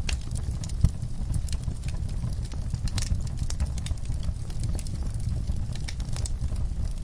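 Wood fire burning in a fireplace: a steady low rumble with frequent small crackles and pops, one sharper pop just under a second in.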